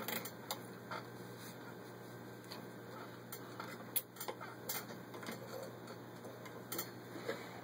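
Faint, irregular light clicks and taps of a Singer 15-91 sewing machine and its fabric being handled while the motor is stopped, over a low steady hum.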